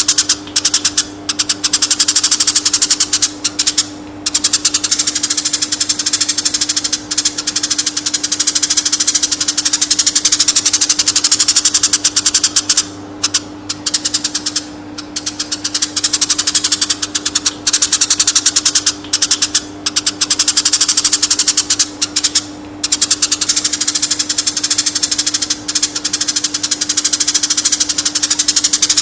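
Eurasian tree sparrow chattering continuously in a rapid, unbroken run of chirps that breaks off briefly a few times. A steady low hum runs underneath.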